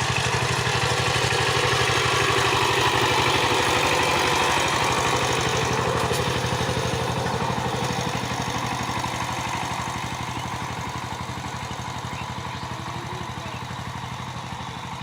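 A 12-horsepower power tiller engine chugging steadily with a rapid, even beat of firing strokes. It grows gradually fainter over the second half.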